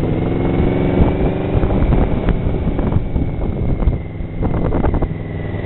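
Yamaha Venture touring motorcycle's V4 engine running steadily under way, with wind buffeting the microphone.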